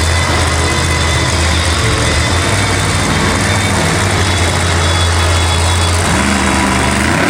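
Monster truck engine running steadily with a loud, low drone. A second, slightly higher engine pitch comes in about six seconds in.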